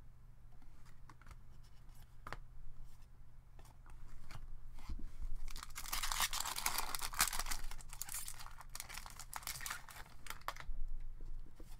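Trading cards and their foil pack wrapper being handled. Faint scattered clicks come first; then, from about six seconds in, there are a few seconds of continuous crinkling, tearing rustle.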